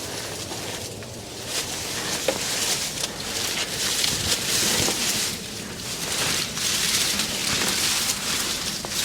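Rustling, hissing noise that swells and fades every second or two.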